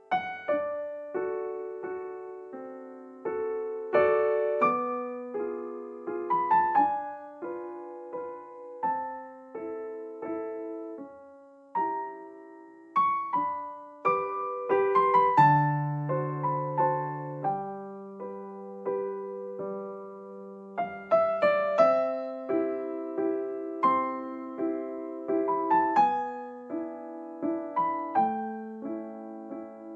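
Background piano music: a slow, gentle melody of single struck notes that ring and fade.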